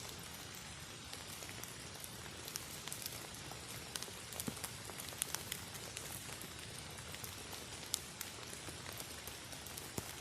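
Steady rain falling: an even hiss with scattered sharp ticks of drops landing.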